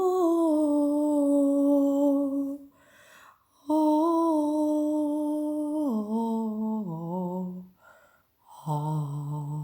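A woman humming a slow wordless tune in long held notes: three phrases with short breaths between, the second stepping down twice in pitch and the last held low.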